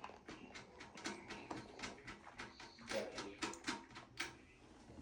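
Irregular series of small clicks and clinks, with a quicker run of sharper ones about three seconds in, typical of metal washers and nuts being handled and fitted onto toilet closet bolts.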